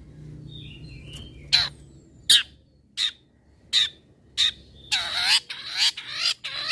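Long-tailed shrike giving harsh, rasping scolding calls, spaced out at first and then quickening into a rapid run near the end.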